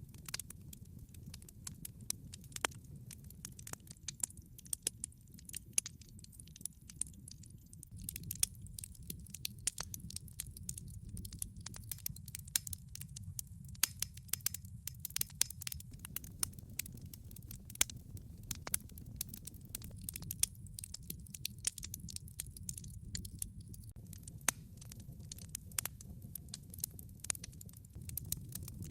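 Wood fire burning in a fireplace: logs crackling and popping with many irregular sharp snaps over a low steady rumble of the flames.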